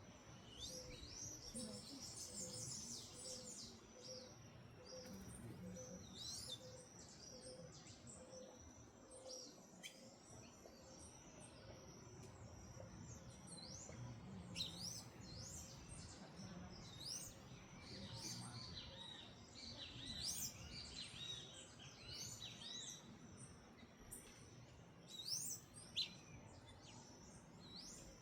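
Small backyard birds chirping and calling, many short quick notes coming in bursts, several birds at once.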